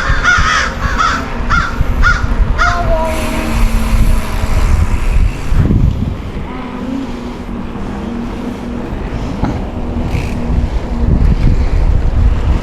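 Short harsh animal calls repeated about two or three a second, stopping about 3 s in, over wind rush on the microphone and tyre noise from a moving bicycle.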